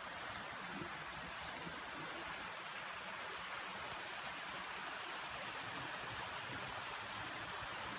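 Running water of a shallow creek: a steady, even rushing hiss.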